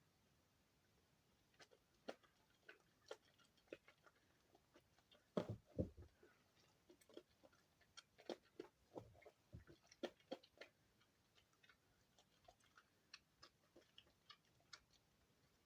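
Soap being pressed and worked by hand, making quiet, irregular clicks and crackles, with two louder ones close together about five and a half seconds in.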